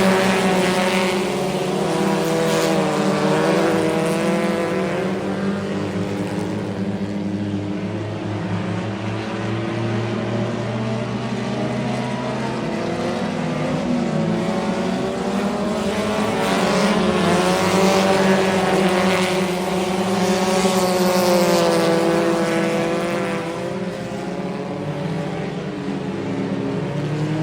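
Dirt-track race car engines running laps in a heat race, the pitch rising and falling again and again as the drivers get on and off the throttle, with louder swells as the cars come around.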